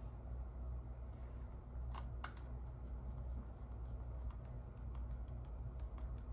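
A camera and lens being handled in a function test: scattered light clicks and ticks, with a sharper double click about two seconds in, over a steady low hum.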